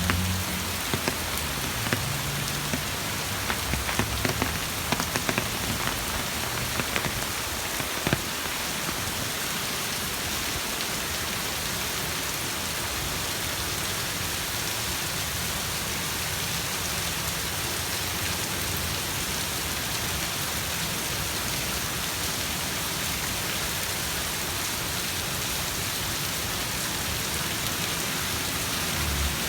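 Steady rain falling and hitting surfaces, with scattered sharper drop taps during the first several seconds.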